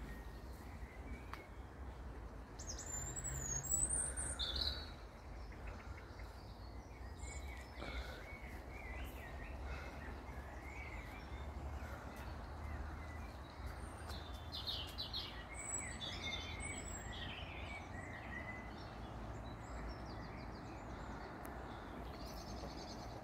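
Wild birds singing and chirping, short high calls and trills coming and going, with the busiest calling about three to five seconds in and again around fifteen seconds in, over a steady outdoor background hiss and low rumble.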